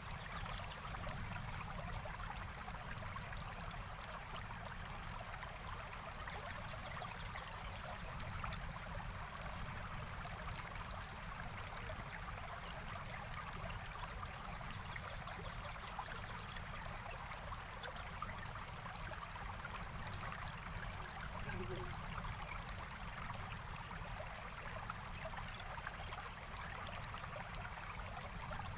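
Forest stream flowing and trickling steadily, with faint campfire crackles scattered throughout.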